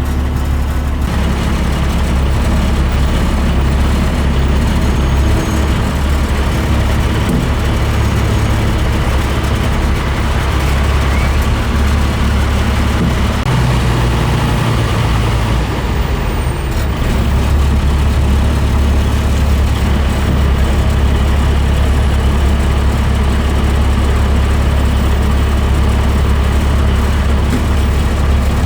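Deuce-and-a-half military truck's engine running as the truck drives at parade pace, a loud steady low drone whose note shifts briefly about halfway through.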